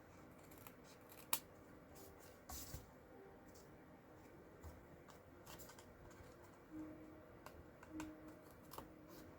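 Scissors trimming a sliver off the edge of a cardstock card panel: a few faint, short snips and paper-handling clicks.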